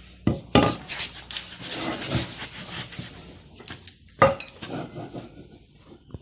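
Metal tools and parts clanking and scraping during engine repair work: a few sharp knocks, the loudest a little after four seconds, with rattling and scraping in between.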